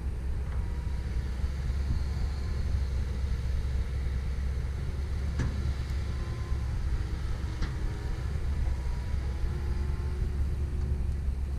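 Komatsu PC170LC-10 excavator's diesel engine running steadily under work, with faint hydraulic whine that shifts in pitch now and then. Two sharp clicks or knocks, about five and seven and a half seconds in.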